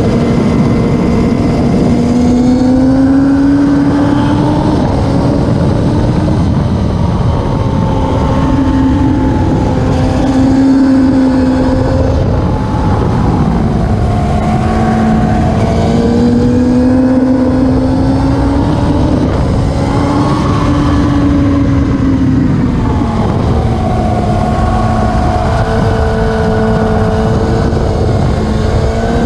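Classic superbike racing motorcycle engine running hard at high revs, its pitch rising and falling in slow swells every few seconds, over a steady rushing noise.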